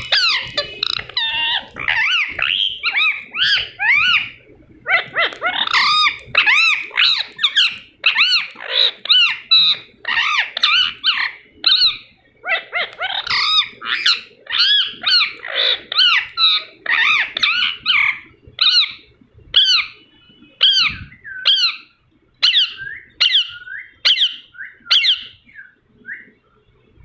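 Ringneck parakeet chattering in a rapid run of short, high calls, thinning near the end to separate calls about half a second to a second apart.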